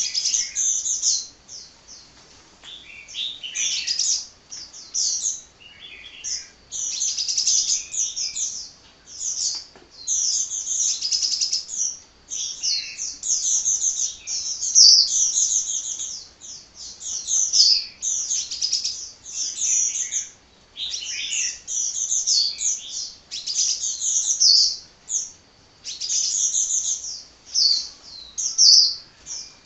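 A sunbird (the 'kolibri' of Indonesian bird keepers) singing almost without a break: rapid, high-pitched runs of chirps and twitters with only short pauses between phrases.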